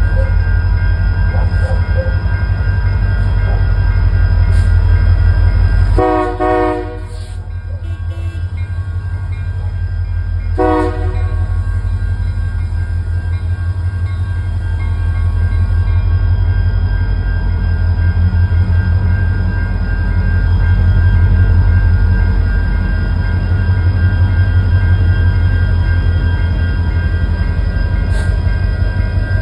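Union Pacific freight train rumbling past, its diesel locomotive running steadily. The horn sounds twice: a longer blast about six seconds in and a short one about four seconds later.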